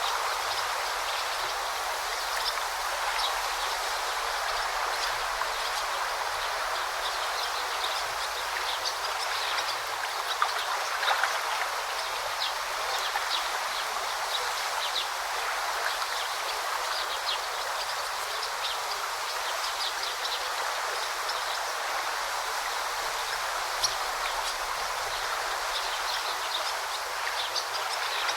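A river babbling steadily, with short, high bird chirps scattered throughout.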